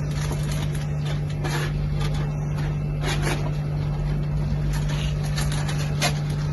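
A vehicle engine running steadily, a low hum and rumble, with a few faint knocks.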